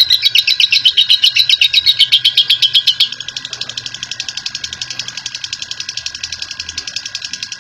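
Lovebird giving its long chattering trill ('ngekek panjang'), a fast, even run of shrill repeated notes. About three seconds in it drops quieter and thinner but keeps going without a break.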